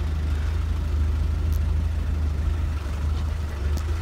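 Land Rover Discovery's engine running with a steady low hum, heard from inside the cabin as the truck rolls slowly forward.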